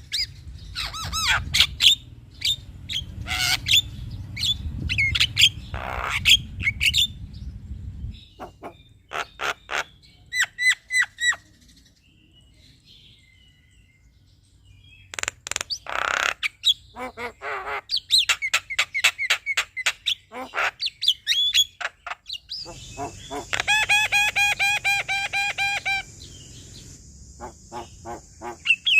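Male Javan myna singing a varied, chattering song of sharp repeated notes, whistles and harsh buzzy phrases, with a brief pause about halfway through.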